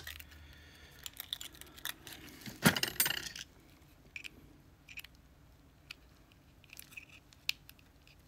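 Light metallic clicks and clinks as a lock cylinder is handled and a shim is worked into it, with a louder metal clatter about two and a half seconds in, then only sparse faint clicks.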